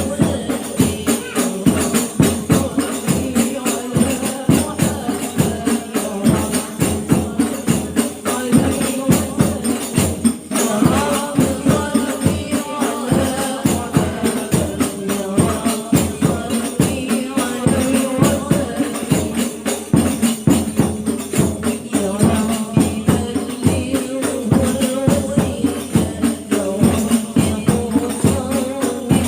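Hadroh ensemble of rebana frame drums and tambourine jingles playing a quick, steady rhythm, with a group of women singing sholawat over it.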